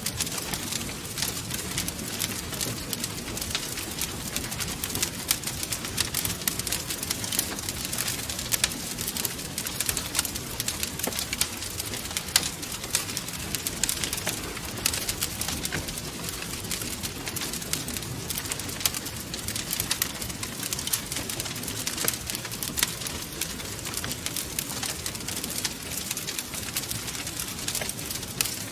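Wood fire crackling and popping, with dense irregular snaps over a low, even rumble.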